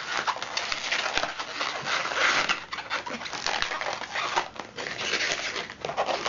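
Inflated latex modelling balloons squeaking and rubbing against each other and the hands as they are twisted into a pinch twist: a continuous scratchy squeak with many small creaks.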